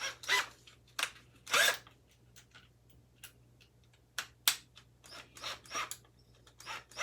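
Tools and metal fan parts being handled on a workbench: a string of short clicks, clinks and scrapes, about a dozen spread irregularly, over a faint steady low hum.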